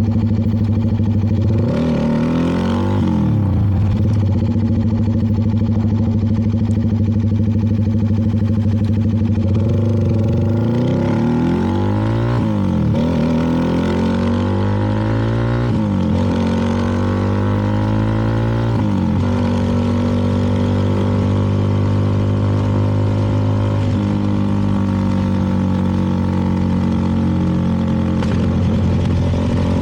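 CFMoto 300NK motorcycle engine under way. Its pitch dips and recovers a few seconds in, then climbs three times in a row, dropping sharply at each gear change. It then holds a steady pitch at cruise for the last third.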